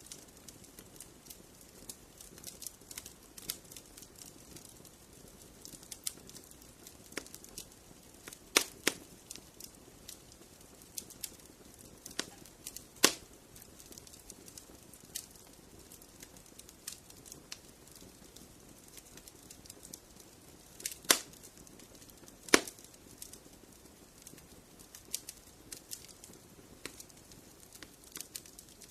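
Wood fire crackling in a fireplace: irregular sharp snaps and pops over a low steady hiss, with a handful of louder pops scattered through.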